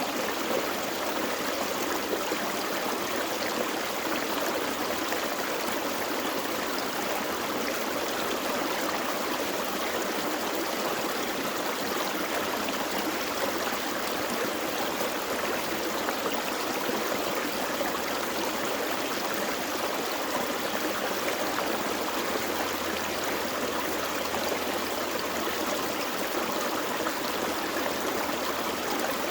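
Gentle forest stream flowing over rocks: a steady, even rush of water with gurgling.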